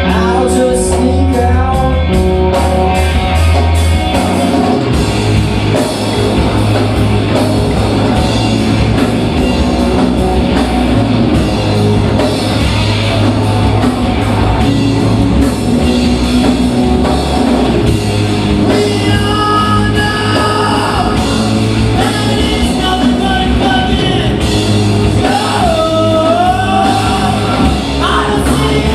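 Live rock band performing: distorted electric guitars, bass and drums playing loudly together, with a sung vocal line over them.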